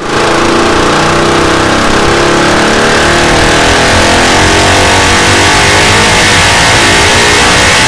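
KTM 690 Duke's single-cylinder engine running hard through a Delkevic X-Oval 14-inch titanium silencer, its exhaust note climbing slowly in pitch as the engine winds up under load on a dyno.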